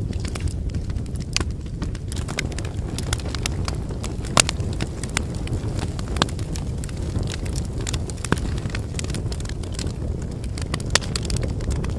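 Wood campfire burning: a steady low rush under frequent crackles and pops from the burning firewood, with a few sharper pops standing out.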